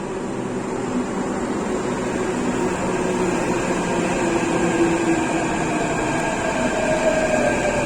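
Delhi Metro train moving along the platform: a steady rumble with an electric motor whine that shifts in pitch, growing gradually louder.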